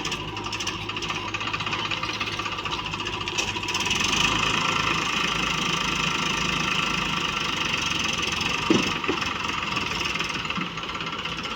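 Diesel engine of heavy machinery running steadily, growing louder about four seconds in, with a brief thump near the nine-second mark.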